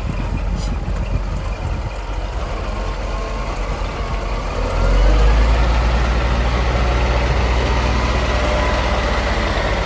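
Scania R420 tractor unit's diesel engine running, growing louder about halfway through with a rise in pitch, then holding steady.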